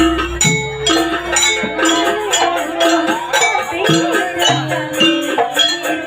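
Live jaranan music: a gamelan-style ensemble playing a steady rhythm of drum strokes over ringing tuned gong tones, with a wavering melody line above. A deep gong boom dies away about half a second in.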